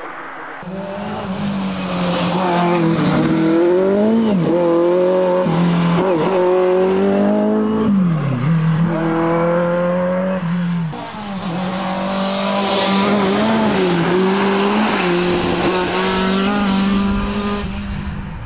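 Rally car engine running hard at high, fairly steady revs, its pitch dropping sharply and climbing back several times. An abrupt cut about halfway through switches to a second pass of the same kind.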